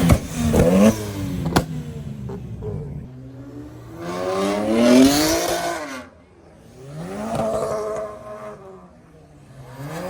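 Car engine revving up and falling back three times: a short rev at the start, a longer climb peaking about five seconds in, and a softer rev near the end. A single sharp crack comes about a second and a half in.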